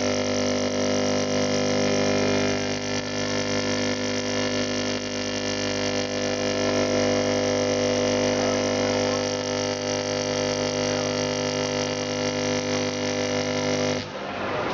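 Truck air horns blowing one long held chord of several steady tones, cutting off suddenly near the end.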